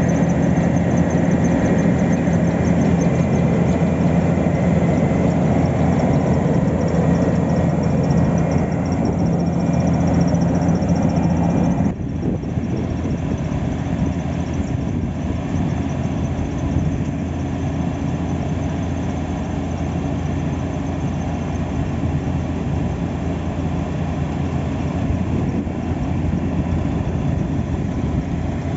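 Diesel engines of heavy road-paving machinery running steadily at low speed. About twelve seconds in, the sound drops a little in level and changes character.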